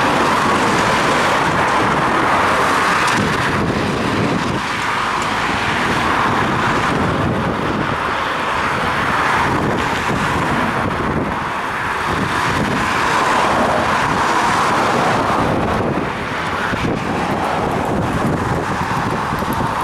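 Steady rushing noise from riding a bicycle in traffic, with wind on a head-mounted action camera's microphone and passing car and road noise, swelling and easing every few seconds.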